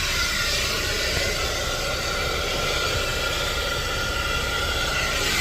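Car-wash vacuum running through its hose: a steady rushing hiss of sucked air with a faint high whine.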